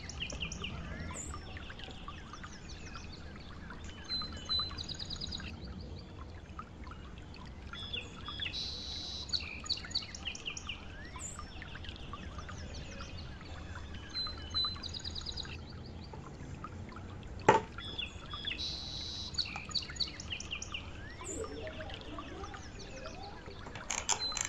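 Birds chirping and singing, with the same run of calls coming back about every ten seconds. One sharp click comes about two-thirds of the way through.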